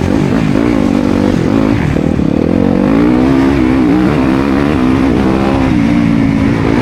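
Yamaha YZ250FX four-stroke single-cylinder dirt bike engine being ridden hard in a motocross race. It is loud throughout, and its pitch climbs and drops again and again as the throttle is worked.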